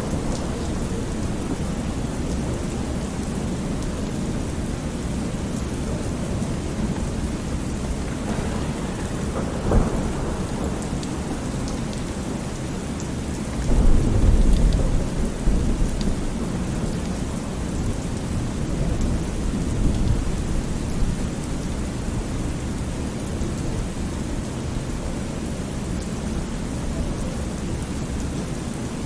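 Thunderstorm: steady rain with low rolls of thunder, the loudest rumble coming about halfway through.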